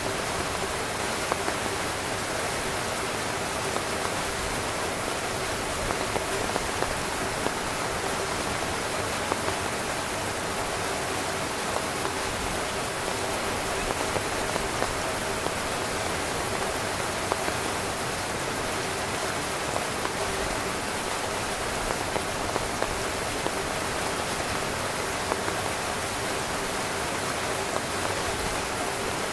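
Heavy rain falling steadily on a tent, a constant wash of noise with individual drops hitting harder every second or so.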